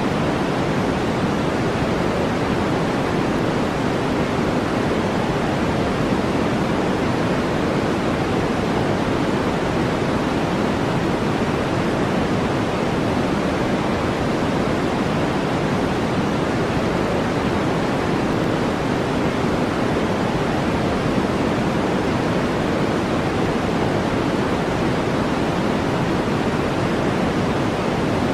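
Steady synthetic brown noise: an even, deep rushing hiss that does not change.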